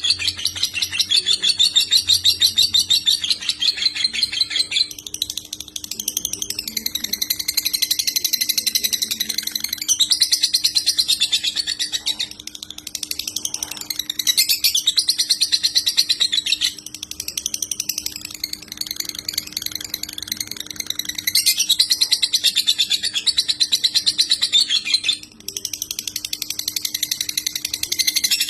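Lovebird of the konslet type singing its long, rapid chattering trill (ngekek), high-pitched runs of several seconds each with brief breaks between them, over a faint steady low hum.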